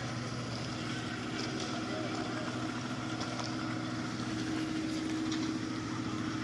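An engine running steadily at a concrete pour, with a constant hum that grows a little louder about halfway through, and a few faint ticks over it.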